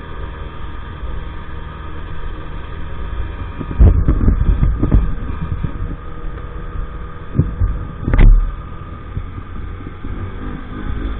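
EAYS Pro 50cc moped engine running steadily under way, over a low rumble. Heavy low thumps come about four to five seconds in and again at about eight seconds.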